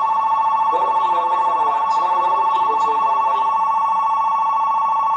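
Station platform departure bell ringing steadily, a fast electric-bell ring on two close tones, signalling that the train is about to leave. A voice on the platform PA is faintly audible under it for the first few seconds.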